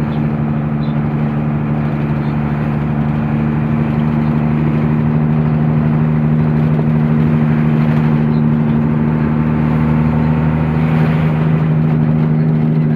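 Truck engine running steadily while driving, a constant low drone over road noise.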